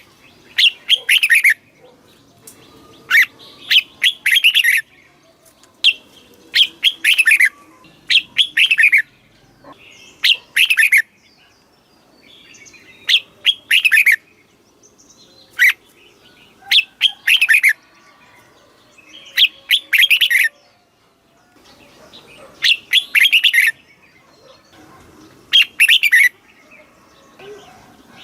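Red-whiskered bulbul singing: about a dozen short, loud whistled phrases of around a second each, repeated every couple of seconds.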